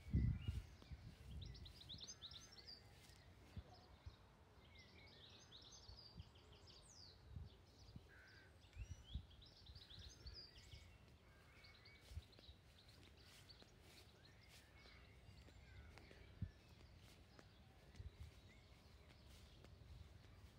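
Faint birdsong: a few short phrases of high chirping song from small garden birds. There is a low thump at the start and scattered soft low bumps.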